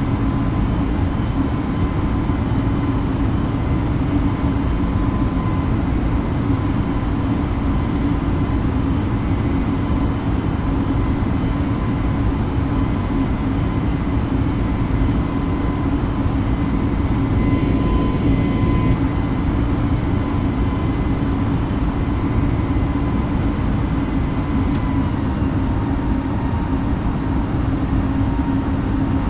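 Airbus A320neo cabin noise heard from inside the cabin: a steady drone of jet engines and airflow, with a steady hum and thin whine-like tones over the rumble.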